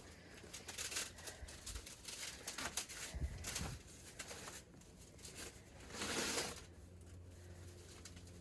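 Plastic rustling and crinkling with scattered clicks and knocks, and a louder rustle about six seconds in, from plastic plant pots and trays being handled.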